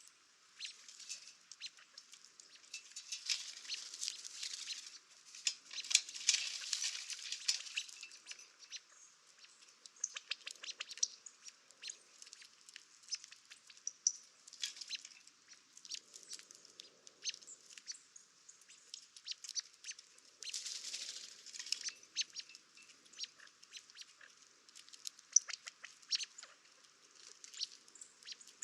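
Birds chirping among many scattered sharp clicks and scratches, with a few short stretches of rustling.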